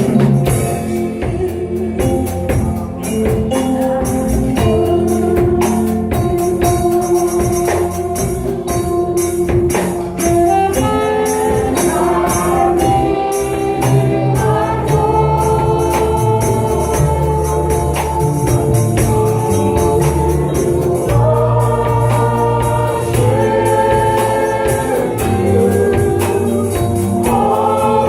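Gospel worship music: a choir singing with a band, a tambourine keeping a steady beat.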